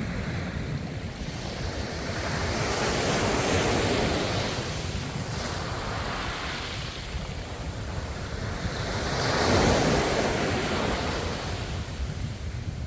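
Ocean waves surging and washing onto the shore, two waves swelling up about three and a half seconds in and again near ten seconds, over a steady low rumble.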